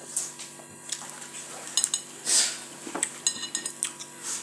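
Cutlery clinking and scraping against dishes while eating, with a few sharp clicks and two short metallic rings. There is a louder scrape about two and a half seconds in.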